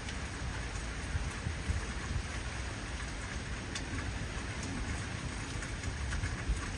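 Heavy rain falling steadily, with scattered sharp drop hits and a low rumble of thunder underneath.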